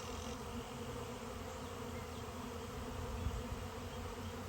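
A swarm of thousands of honeybees in flight just after leaving the hive, making a steady, dense buzz.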